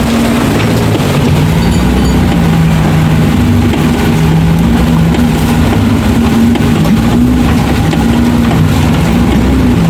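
A Suzuki off-road 4x4's engine running under load at low speed, its pitch rising and falling as the throttle is worked over the trail.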